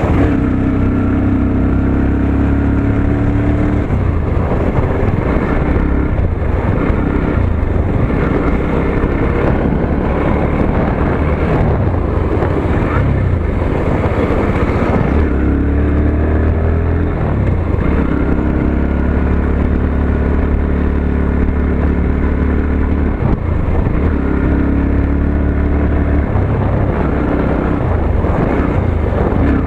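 Motorcycle engine running while riding. The engine note holds steady for stretches and shifts up and down in between as the speed changes.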